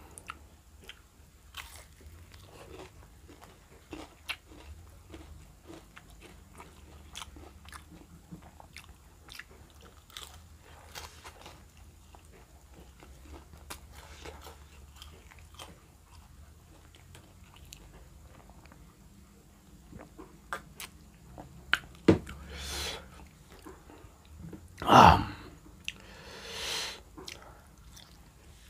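Close-up eating sounds: steady chewing with many small wet mouth clicks, then a few louder bites near the end, the loudest about three-quarters of the way through.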